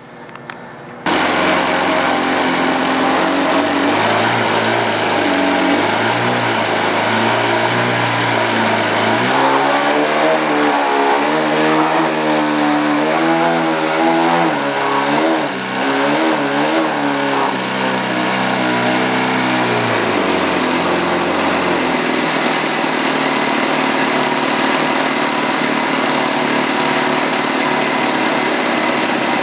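Glow-fuel model airplane engine running at speed. Its pitch wavers up and down repeatedly for about ten seconds in the middle, then holds steady.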